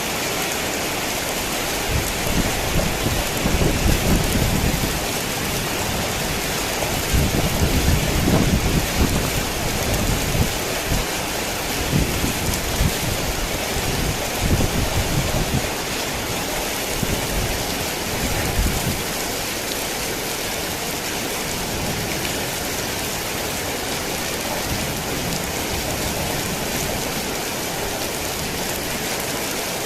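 Heavy rain falling steadily, with thunder rumbling low and uneven from about two seconds in until shortly before the halfway point of the rain's run, then only the rain.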